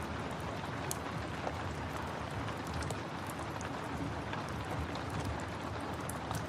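Steady rain mixed with a wood fire crackling, its small pops and snaps coming at irregular moments over the even hiss of the rain.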